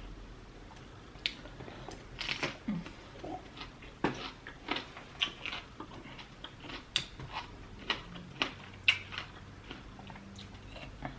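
Close-up eating sounds: lobster tail meat being bitten and chewed with irregular wet smacks and clicks.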